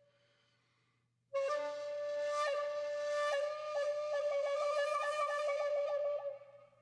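Background music on a solo flute: after a short pause, one long held note comes in about a second in, wavers rapidly about five times a second over its second half, and dies away near the end.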